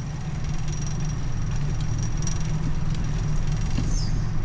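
An engine running steadily with a low hum, with a faint high-pitched whine over it.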